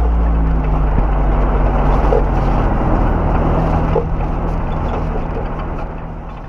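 Opel Kadett D (Astra Mk1) 1.6S four-cylinder petrol engine running steadily under road and tyre noise while driving, fading out over the last couple of seconds.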